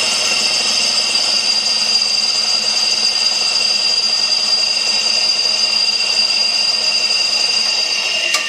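Craftsman 1 hp two-cylinder oil-sump air compressor running steadily just after start-up, with a steady high whistle over the pump's hum. The owner takes the whistle for air moving through the newly replaced check valve. Near the end the whistle stops and the running winds down.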